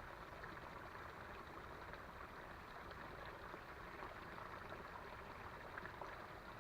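Faint, steady rush of running creek water.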